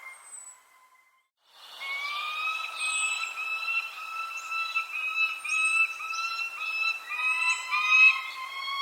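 Birdsong: a continuous, slightly stepped two-tone whistling, with short high chirps that drop in pitch every two to three seconds. The sound cuts out about a second in and comes back half a second later.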